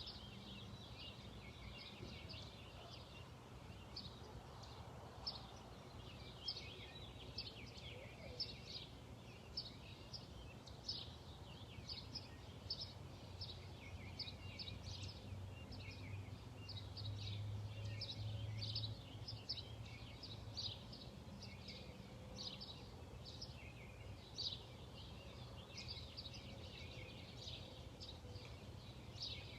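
Wild songbirds chirping and singing, many short high calls overlapping without pause, over a low steady hum that grows louder for a few seconds midway.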